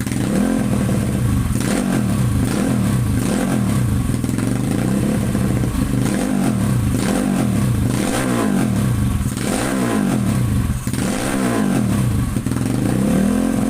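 Motorcycle engine and exhaust revved in short blips, roughly once a second, the pitch rising and falling back each time between idle and higher revs.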